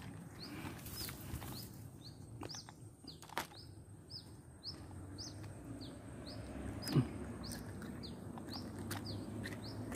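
A small bird calling over and over in short, high, falling chirps, two or three a second, over faint rustling of grass and handling. A single knock about seven seconds in is the loudest sound.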